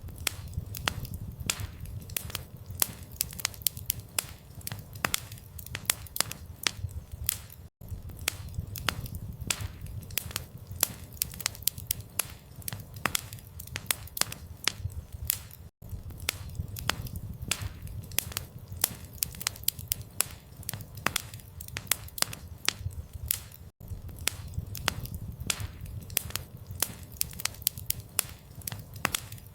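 Campfire burning, with dense irregular crackles and pops from the wood over a low rumble of the flames. The sound breaks off for an instant about every eight seconds.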